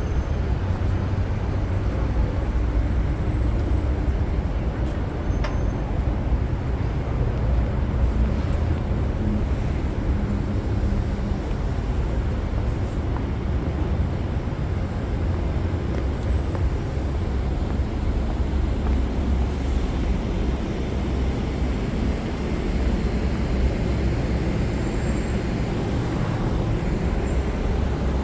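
Steady city street traffic: cars and buses running past, with a continuous low rumble.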